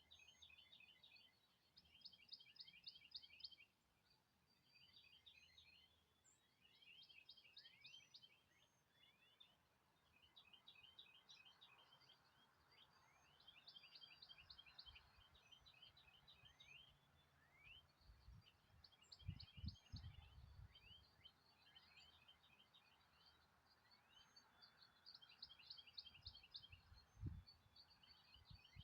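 Faint songbird song: short phrases of rapid chirps repeated every few seconds. A few low bumps or rumbles come in the second half.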